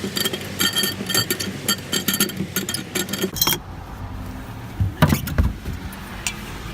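Quick metallic clinking and rattling as the spare wheel's hold-down is twisted loose in a car's trunk well. It stops about three and a half seconds in, and a single thump follows about a second and a half later.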